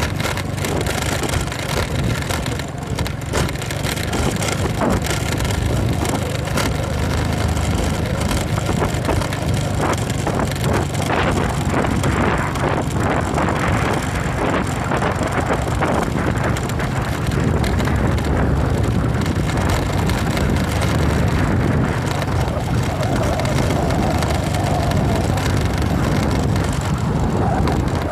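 Motorcycle engine running steadily while riding over a rough dirt road, with wind noise on the microphone and frequent knocks and rattles from the bumpy track.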